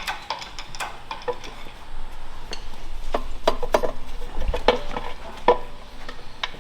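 Irregular metallic clinks and clanks, some ringing briefly, as a Nissan 350Z's engine and transmission are worked loose from the engine bay.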